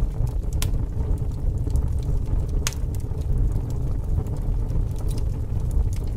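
Crackling fire: a steady low rush broken by sharp pops and snaps, the loudest about two and a half seconds in.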